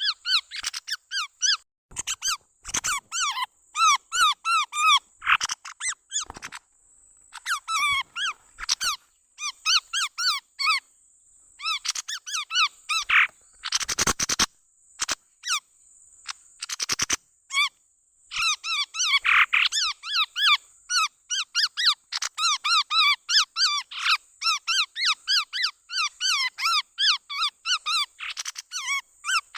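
Chestnut-rumped babbler calls played as a bird-lure recording: rapid bursts of short, chirping notes with brief pauses between runs, over a steady high-pitched hiss.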